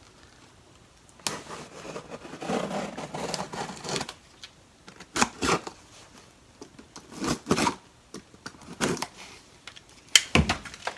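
A cardboard shipping box and its packaging being opened and handled: a sharp click, then a few seconds of rustling and scraping, then a series of separate clicks, taps and knocks.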